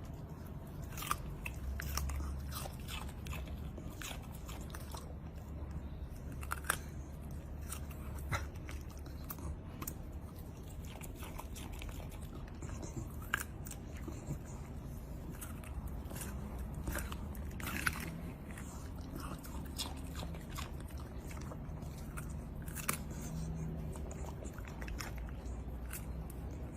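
Chewing on something crunchy: crisp bites and crunches at irregular intervals over a low steady hum.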